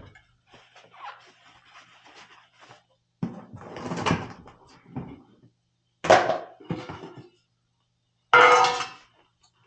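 Tools and burner parts being handled: several separate clatters and scrapes of metal, the loudest near the end.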